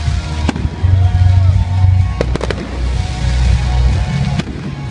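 Aerial firework shells bursting, with several sharp bangs: one about half a second in, a quick cluster a little over two seconds in, and another near the end. Loud music with a heavy bass plays throughout.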